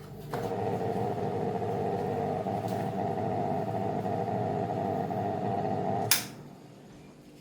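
A small electric motor switched on with a click, running steadily for about six seconds, then switched off with a sharp click.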